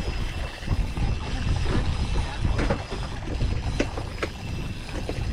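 Wind buffeting the microphone on an open boat, with scattered sharp clicks from a fishing reel as a hooked fish pulls line out because it is not being reeled in.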